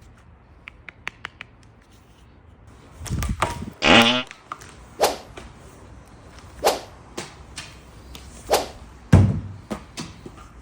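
Wet, soapy feet pressing and squelching on a plastic acupressure foot massage mat. A few small clicks come first, then a longer squelch with a falling squeak about four seconds in, followed by single sharp squelches every one to two seconds.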